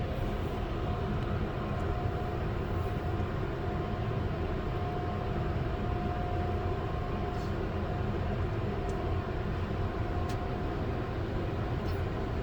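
Car wash tunnel machinery running with a steady low rumble and a faint constant hum, heard from inside a car going through the wash.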